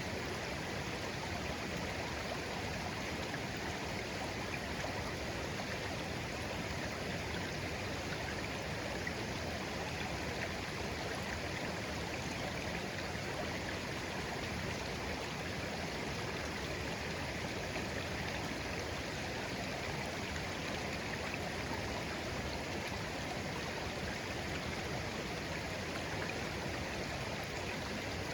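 Clear shallow stream flowing steadily, an even babble of water over stones.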